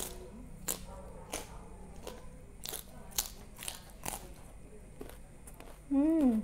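Close-up crunchy chewing: a mouthful of raw leafy vegetable wrapped around rice and curry crunched in a dozen or so short crisp bites at an uneven pace. Near the end a short, loud hummed 'mmm' that rises then falls in pitch.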